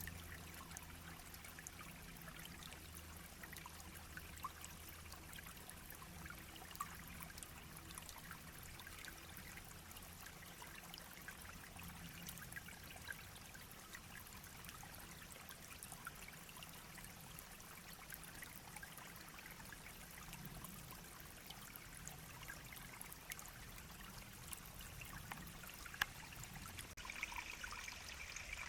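Shallow brook babbling and trickling over stones, faint and steady, with many small splashes and one sharper tick near the end.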